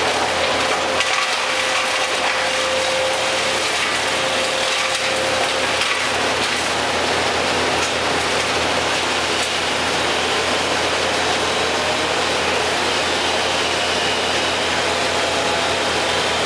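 Tree-removal machinery running steadily and loudly while wood is crushed and splinters, with scattered sharp cracks.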